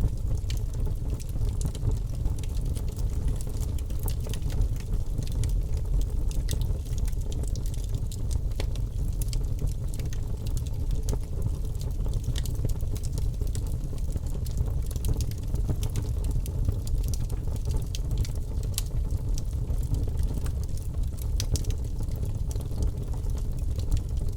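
Birch logs burning in a fireplace: constant crackling, with many small sharp pops over a steady low rumble of the fire.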